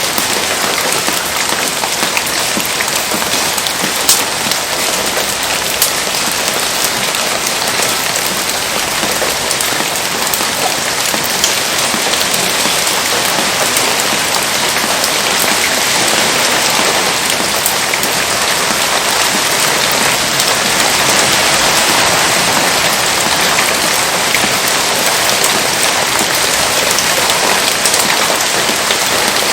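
Heavy rain falling steadily, a dense hiss thick with small drop taps, with a few sharper ticks about 4, 6 and 11 seconds in.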